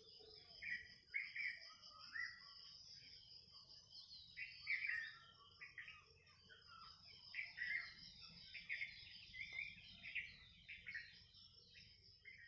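Several wild birds calling together: a busy mix of short chirps, whistles and trills, with a steady high-pitched drone underneath.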